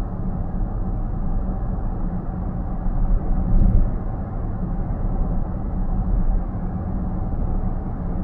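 Steady road and tyre rumble heard inside a car's cabin while it cruises at highway speed, with a slight swell about three and a half seconds in.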